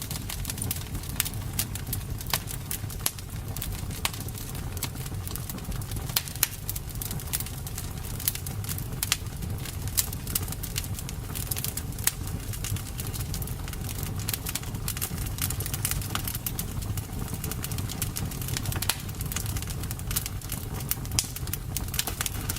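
Campfire burning, with frequent irregular sharp crackles and pops of the burning wood over a steady low noise from the fire.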